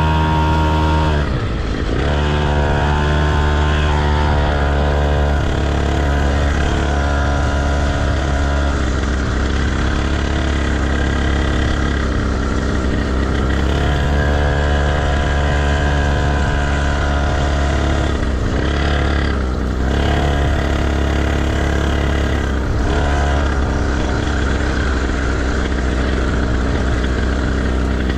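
Motocross bike engine running hard under throttle, its pitch climbing and then dropping in steps several times as the rider opens and closes the throttle and changes gear.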